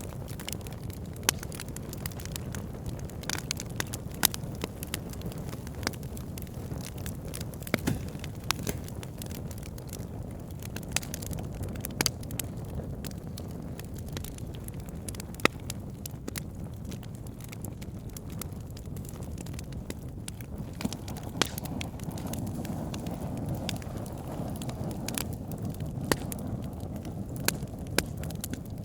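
Wood fire burning with a steady low rumble, and sharp, irregular crackles and pops from the burning logs, a few of them much louder than the rest.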